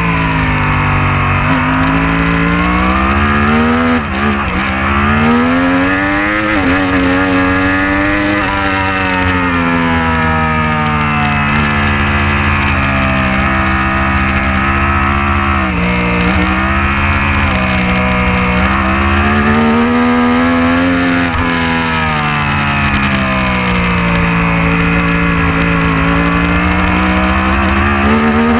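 Racing motorcycle engine held at high revs, its pitch climbing and falling through the gears. There are short sharp breaks at gear changes or braking, about four seconds in, around the middle and again later.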